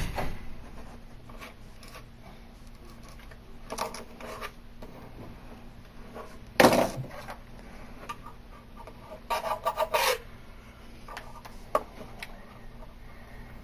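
Hand-held edge banding trimmer shaving the excess edge band off a wood block's edge: separate scraping strokes, the loudest about seven seconds in, then a run of quick rasps at about nine to ten seconds and a sharp click near the end.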